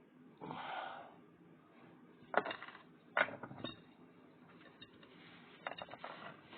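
Steel knife blade working on a sharpening stone: a short scrape, then two sharp metallic clicks about a second apart and a few lighter ticks near the end.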